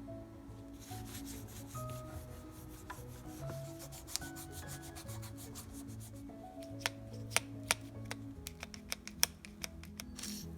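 Rubbing and scrubbing on a bicycle part being cleaned by hand, over soft background music, with a quick run of sharp clicks and taps in the second half.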